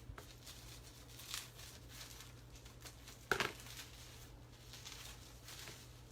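Faint rustling and crinkling of packaging being handled, over a low steady hum, with one brief louder noise about three seconds in.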